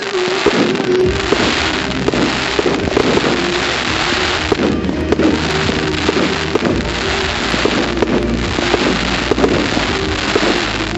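Fireworks display: a continuous dense crackling with many sharp cracks and pops, over a low rumble of bursting shells that grows heavier about seven seconds in.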